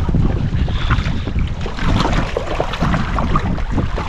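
Wind buffeting the microphone over water rushing past a moving boat, a dense, gusty rumble.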